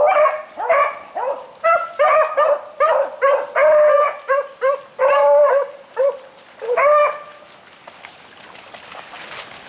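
Beagles baying in a rapid run of calls, about three a second, stopping about seven seconds in: hounds giving tongue while running a rabbit.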